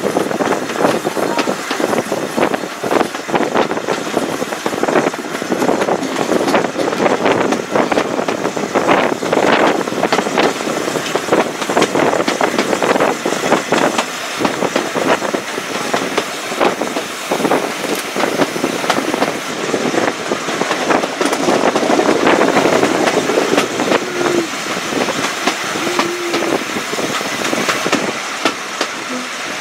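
Railway carriage running along the line, heard from an open window: a steady noise of the wheels on the rails, full of rapid knocks and rattles.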